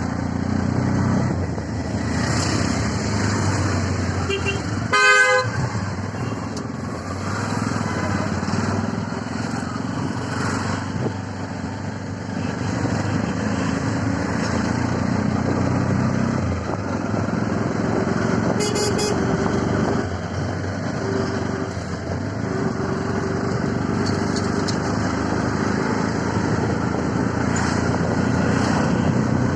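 Steady engine and road noise from a ride in a CNG auto-rickshaw, with a vehicle horn honking loudly about five seconds in and a shorter, higher horn toot a little past the middle.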